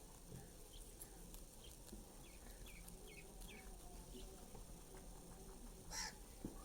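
Near silence, with a quick run of faint, short, falling bird chirps in the middle and one sharper click near the end.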